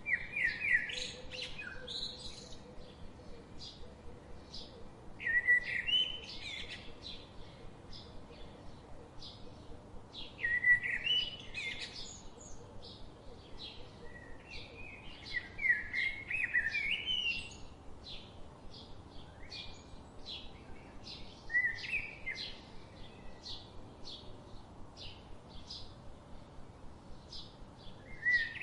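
Birdsong: one bird repeats a short warbling phrase about every five seconds, over the steady quick chirping of other birds.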